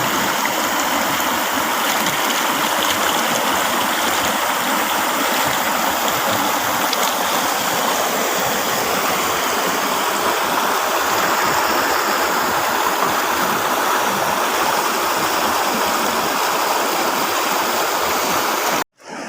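River water rushing and flowing steadily. Near the end it cuts off abruptly, and after a brief silence a different, quieter rushing sound starts.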